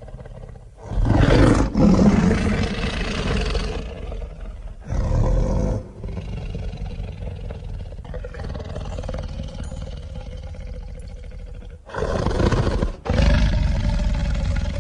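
Made-up dinosaur creature sound effect: a loud, rough roar about a second in that trails off over a few seconds, a shorter roar around five seconds, a quieter growling stretch, then another loud roar about twelve seconds in.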